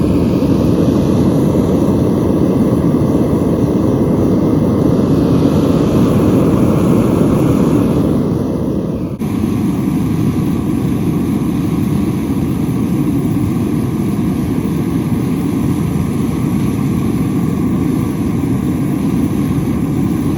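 Propane smithing furnace burner running, a steady loud rush of burning gas, with a brief dip about nine seconds in.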